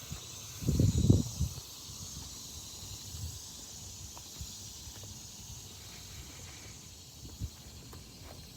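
Steady high hiss of insects outdoors, with a short low rumble of wind buffeting the microphone about a second in.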